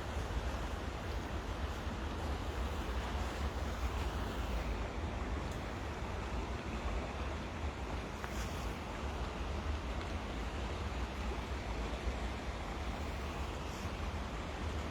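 Steady hiss of rain falling on river water, with a low wind rumble on the microphone.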